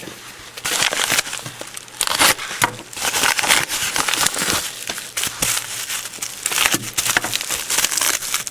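Paper and plastic mail packaging crinkling and crackling as it is handled and opened, a busy, irregular run of rustles and clicks.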